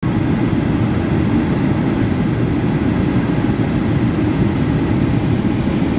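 Cabin noise inside a Boeing 737-800: a steady low rumble of engines and airflow, even and unbroken.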